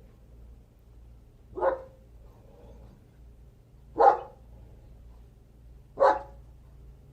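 A dog barking three times, single barks about two seconds apart.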